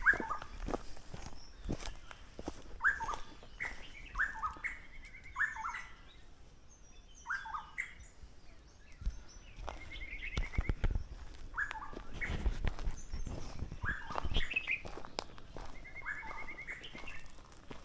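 A forest bird calling over and over: groups of short, clear notes, with a brief rattling trill several times. Footsteps on the trail thump faintly underneath.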